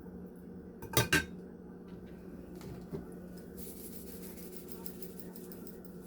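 Two quick clinks of kitchenware about a second in, then a fainter knock, over a steady low hum. A faint rapid pattering follows in the second half.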